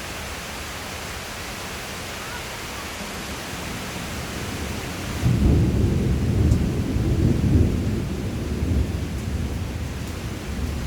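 Steady rain hissing, then about five seconds in a loud, low thunder rumble rolls in for a few seconds and slowly dies away under the rain.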